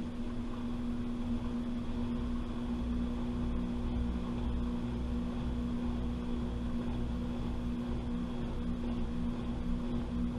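Washing machine running, heard from inside the drum: a steady motor hum over a low rumble that swells and fades every second or so.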